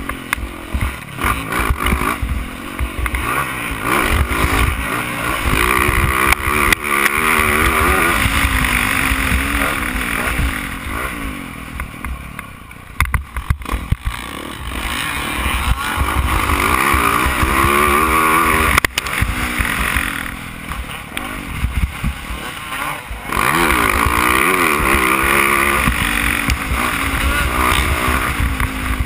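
Yamaha YZ450F four-stroke single-cylinder motocross engine under race load, its pitch climbing and falling again and again as the rider works the throttle and shifts. It eases off briefly about halfway through, then revs up again.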